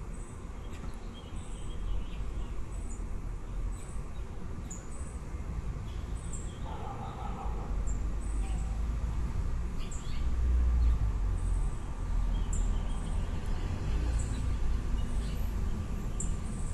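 Nestling birds giving short, high-pitched chirps, repeated about once a second, over a steady low rumble that swells about ten seconds in.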